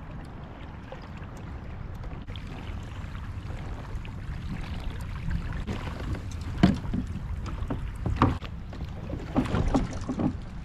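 Sounds aboard a kayak on open water: a steady low rumble of wind on the microphone, broken by several hollow knocks against the hull, the loudest a little past the middle and a quick cluster near the end.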